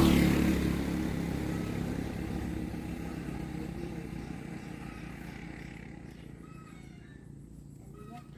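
A motorbike engine passing close by, loudest at the start and then fading steadily as it moves away.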